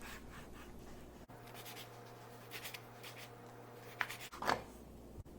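Knife slicing raw boneless chicken thigh into thin strips: soft, faint repeated scraping strokes, with a sharper knock about four and a half seconds in.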